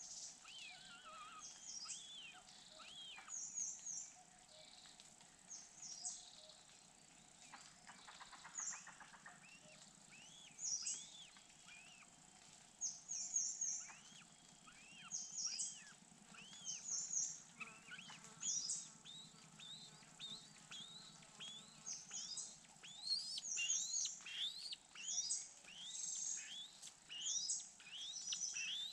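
Birds chirping: many short, high chirps and arched calls, repeated quickly. A short scratchy noise comes about eight seconds in.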